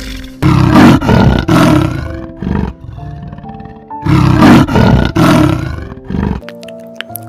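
Big cat roaring: two runs of a few short, loud roars about half a second each, a couple of seconds apart, over background music with steady held notes.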